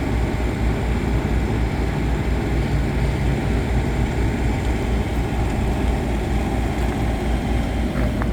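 Thermo King refrigeration unit running steadily, a constant engine drone with an even low throb.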